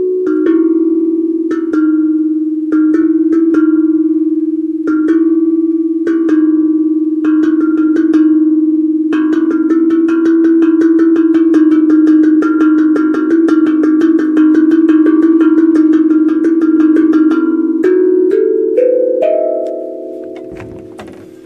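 Resonant percussion struck by hand with bell-like ringing notes over a steady low hum, first in separate beats, then in a fast continuous roll. Near the end the notes step upward in pitch and the sound fades away.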